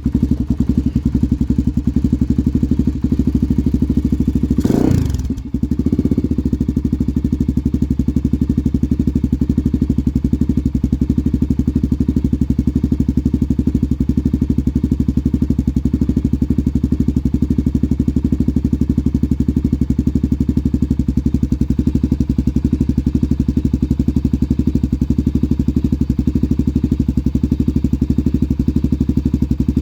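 Honda 400EX ATV's single-cylinder four-stroke engine idling steadily while it warms up after a cold start, with a brief thump about five seconds in.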